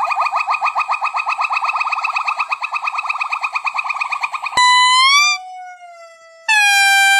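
Animal calls: a fast trill of rising chirps, about ten a second, that breaks off with a click, followed by long, clear whistled notes that bend upward at their ends.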